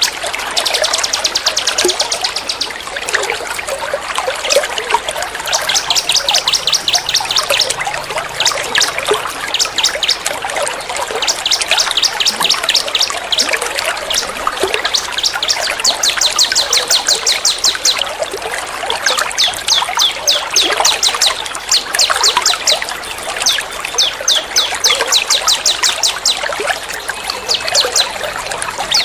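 Small songbirds repeating fast, rattling trills ('tembak' calls) in bursts of a second or two, one after another, over a steady trickle of running water.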